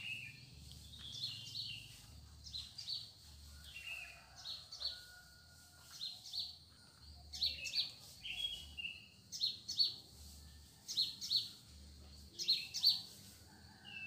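Small songbirds chirping: short, high calls repeated about once a second, growing louder toward the end, over a faint low pulsing.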